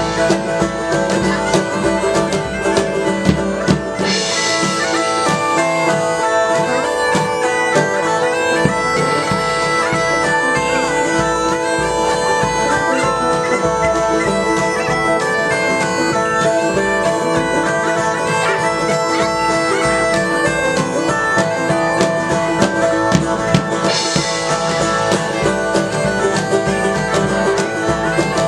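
A medieval-market band playing live: bagpipes carry the tune over their steady drones, with a drum beat.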